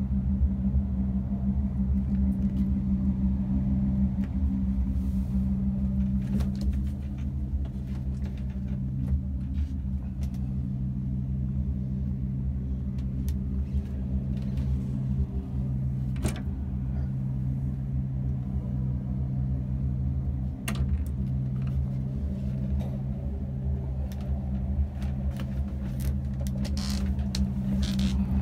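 A vehicle engine idling steadily with an even low hum, while a few light clicks and knocks sound now and then.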